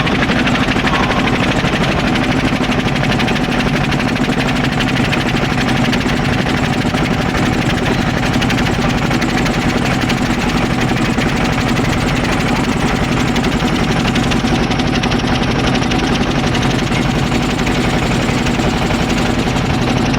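Boat engine running steadily with a fast, even chugging, heard from on board.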